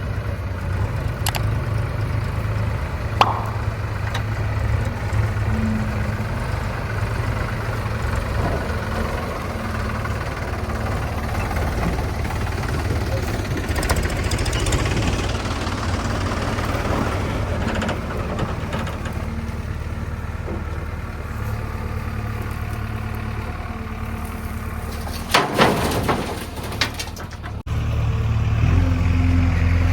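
Diesel engine of heavy machinery running steadily, with a few sharp knocks near the end, then the engine noise changes suddenly and is louder.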